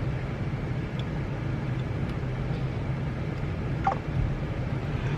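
Steady low hum of a car's engine and cabin noise, heard from inside the car, with a brief faint higher tone about four seconds in.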